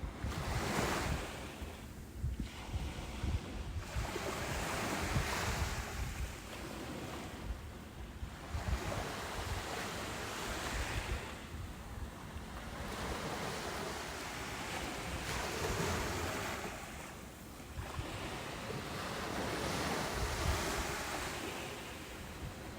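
Ocean surf: waves breaking on a beach one after another, each a wash of noise that swells and fades every few seconds.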